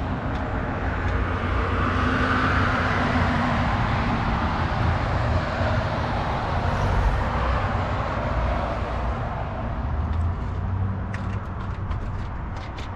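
Steady rumble of road traffic passing by, swelling and easing, with a low engine hum that grows for a few seconds and then fades.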